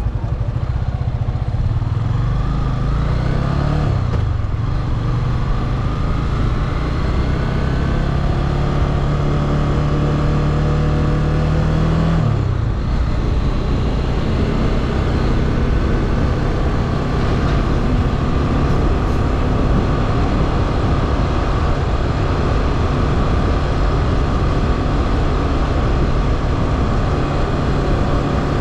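Motorcycle engine pulling under way. Its note climbs, drops sharply about four seconds in, climbs again and drops once more about twelve seconds in, then holds steady as the bike cruises.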